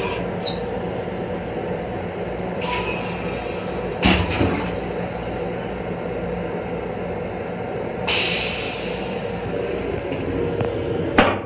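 Steady rumble and hum of a Long Island Rail Road M7 electric railcar heard from inside. There is a knock about four seconds in, a hiss lasting about a second and a half just past the middle, and another sharp knock near the end.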